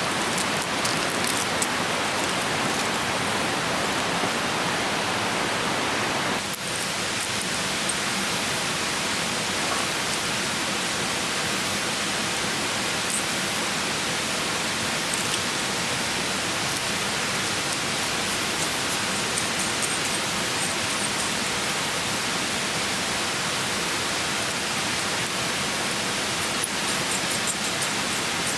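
Clear stream flowing with a steady rush of water, with a brief dip about six seconds in.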